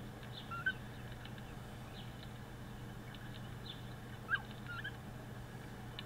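Short bird chirps, a brief one about half a second in and a louder one just past four seconds, with scattered faint high calls and ticks between them.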